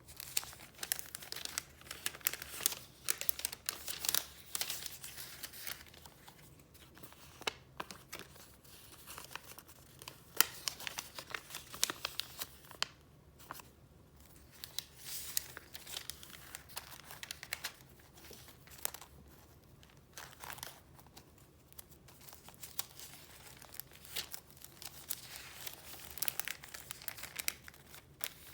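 Paper crinkling and rustling as paper items are handled and leafed through: a dense run of sharp, crisp crackles with a few short pauses.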